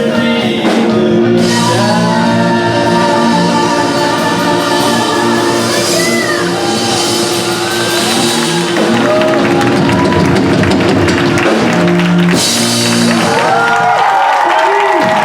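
Live band with a singer and guitar playing the closing bars of a song, with long held notes. Near the end the band stops and the audience starts shouting and cheering.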